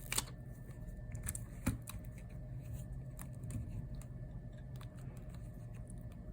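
A few sharp, light clicks and taps of small tools and parts being handled, loudest just after the start and again at about a second and a half in, over a steady low hum.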